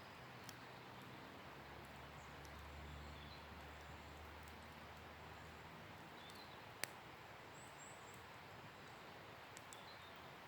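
Wood fire burning quietly, with a few sparse crackling pops and one sharp pop about two-thirds of the way through. Faint bird chirps sound in the background.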